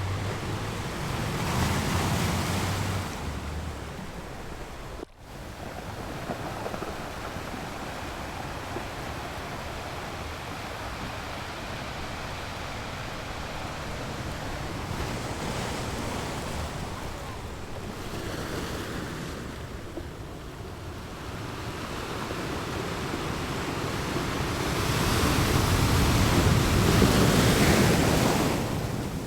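Sea surf breaking on a sandy beach, the wash swelling and easing in waves and loudest near the end. Wind buffets the microphone with a low rumble in the first few seconds, and the sound drops out for an instant about five seconds in.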